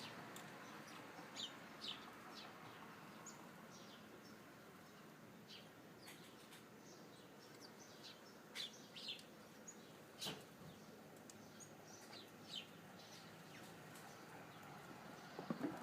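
Small birds at a feeder giving short, high chirps, scattered singly and in pairs over faint background hiss, with one sharp tap about ten seconds in.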